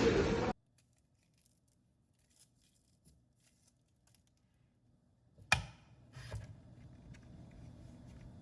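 Faint small ticks and rustles, then a sharp click about five and a half seconds in and a second click shortly after, with low room noise behind.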